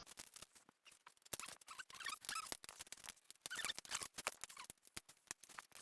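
Faint, scattered clicks and light metallic taps of small screws and a hand tool being handled while the screws are fitted.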